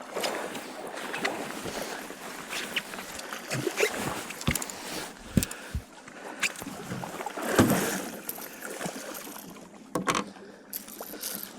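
Wind-driven waves slapping and lapping against a small fishing boat's hull, with scattered sharp knocks and clatter aboard.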